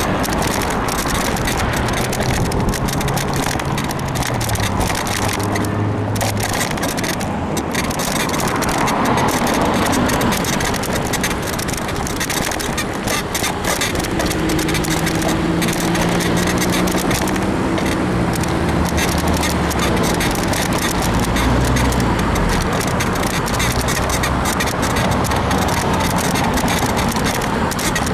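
Road traffic heard from a moving bicycle: a steady, loud rush of noise with car engines passing by, their low hum rising and fading, most clearly in the middle and latter part.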